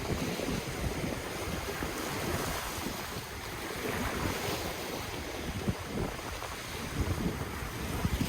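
Ocean waves washing steadily onto the shore, with wind rumbling on the microphone.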